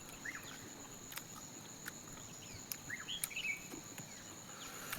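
Faint outdoor ambience: a steady high insect trill, with a few soft clicks and several short chirps.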